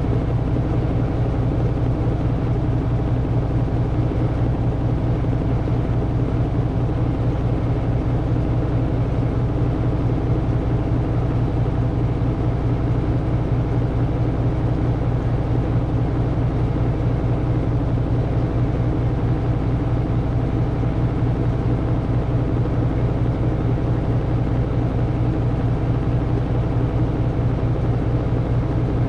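Samsung washing machine in its final spin cycle, the drum spinning at speed with a loud, steady hum.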